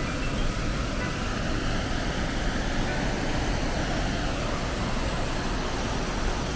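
Steady rush of falling water from a waterfall, an even noise without breaks.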